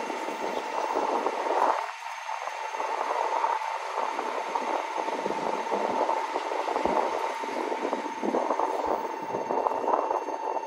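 N700S Shinkansen trainset running past on distant tracks: a steady rushing rolling noise with a constant whine under it.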